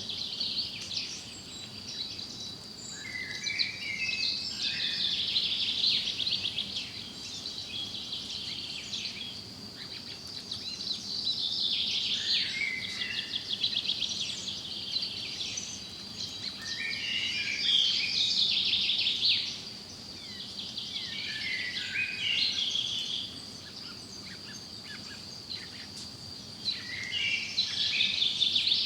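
Forest songbirds singing, several overlapping birds giving short warbling phrases and trills every few seconds, over a steady high-pitched buzz.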